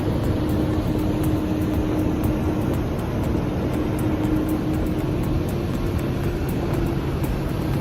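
Heavy diesel engines of mining haul trucks running steadily under load: a continuous drone with a steady hum.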